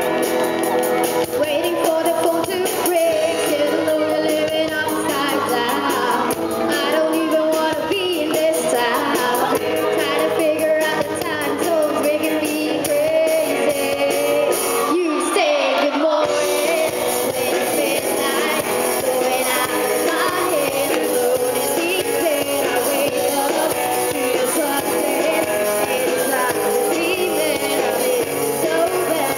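Amateur rock band playing live with amplified instruments, steady and loud throughout, with a brief thinning of the sound about fifteen seconds in.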